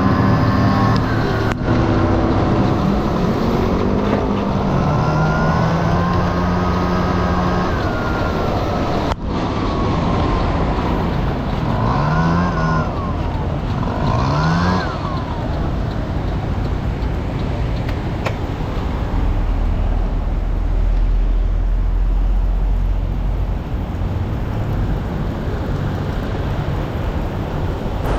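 Honda Dio AF18 50cc two-stroke scooter engine running under way, its pitch rising and falling with the throttle, with two quick revs near the middle. In the second half the engine note sinks into a steady wash of wind and road noise with a low rumble.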